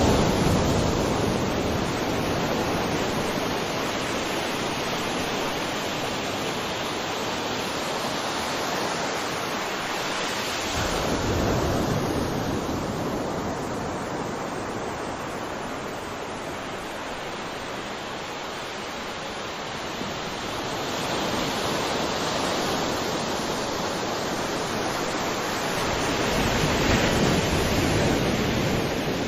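Sea waves washing onto a shore: a continuous rush of surf that swells louder a few times as successive waves break.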